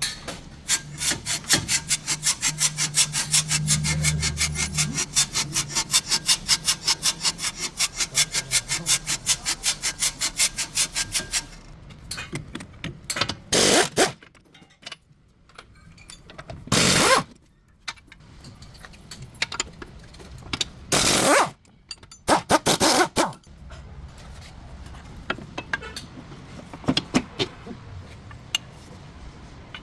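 Hand-tool work on a car's front suspension during a lower control arm replacement: rhythmic scraping strokes, about four a second, for roughly eleven seconds. Then a handful of short, loud bursts about three to four seconds apart, with faint clicks of tools in between.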